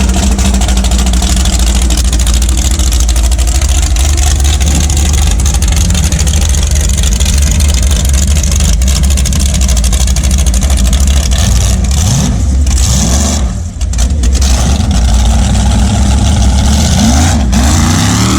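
A car engine running with a steady low rumble, its pitch rising and falling briefly a few times near the end.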